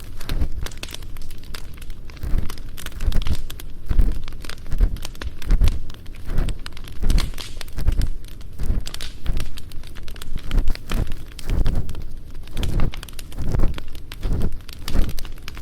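Crackling campfire mixed with close-up scraping and rubbing of an ear pick in a binaural microphone's ear, a low rubbing stroke about once a second.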